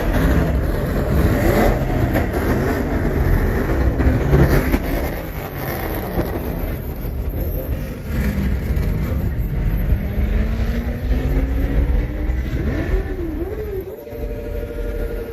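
Car engines running and revving with a heavy low rumble; one engine's pitch rises slowly partway through, and a steady pitched tone comes in near the end.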